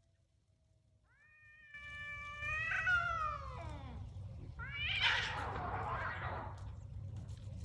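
Cat yowling in a fight: one long drawn-out call that falls in pitch near its end, then a louder, harsher screech with a hissing edge about five seconds in.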